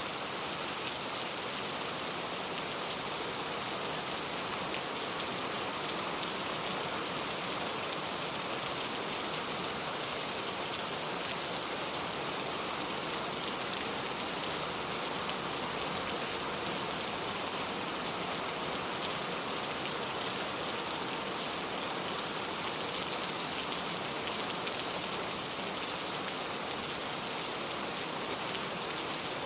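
Heavy, steady pouring rain, a dense even hiss of drops with fine patter throughout.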